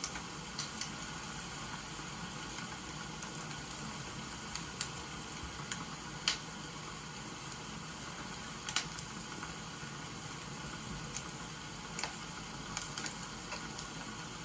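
Wood fire crackling, with sharp pops at irregular intervals, over a steady hiss of rain.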